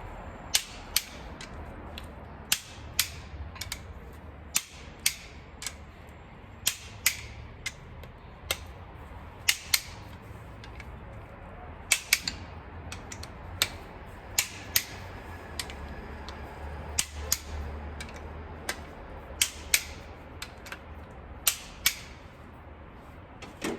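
Torque wrench clicking as bolts are tightened to 40 foot-pounds: sharp single clicks, often in close pairs, every second or two, over a low steady hum.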